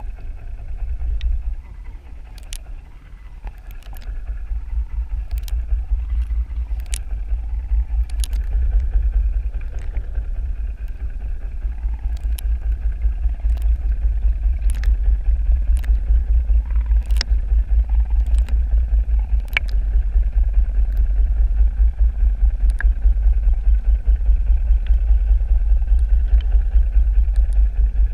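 Underwater recording of a low motor rumble, rapidly pulsing, growing louder over the first few seconds and then holding steady, with sharp clicks every second or two.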